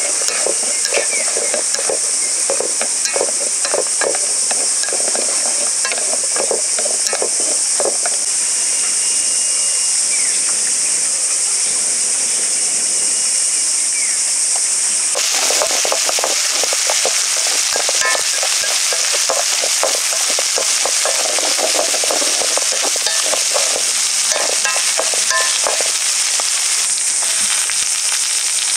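Food sizzling in a hot pan while a utensil stirs and scrapes it in quick repeated strokes, with a steady high hiss beneath.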